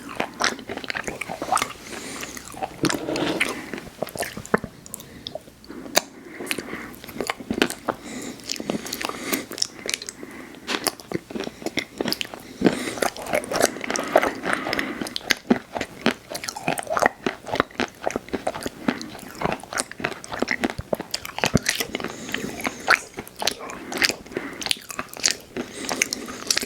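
Close-miked eating of ice cream and cookie treats: repeated bites and chewing with sharp, irregular crunches.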